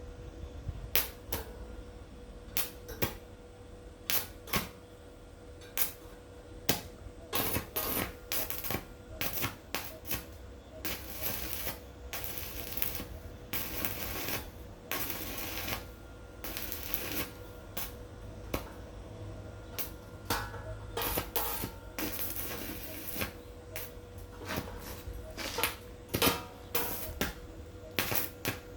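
Irregular sharp clicks, clinks and knocks of hard objects being handled, coming in scattered runs, over a faint steady hum.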